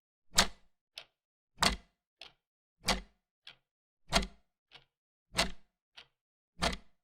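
Clock ticking steadily in a tick-tock pattern. A loud tick comes about every one and a quarter seconds, with a softer tick between each pair.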